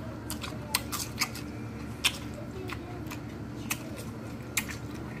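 Close-up crunching of a crisp raw mini cucumber being chewed, in short irregular crisp crunches.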